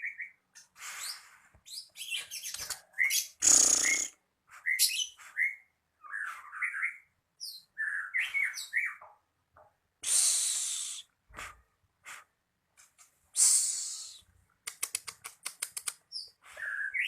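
Plamboyan songbird calling in a string of short chirps and whistled notes, with a few harsh, hissing calls and a fast rattling trill near the end.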